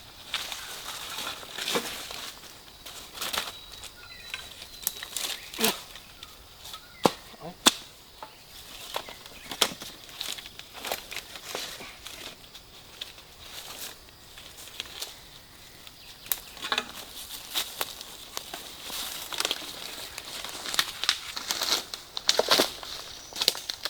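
Dry fallen leaves and twigs rustling and crackling, with many scattered sharp snaps.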